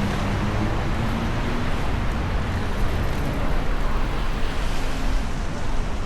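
Steady city street noise: a low rumbling hiss of road traffic.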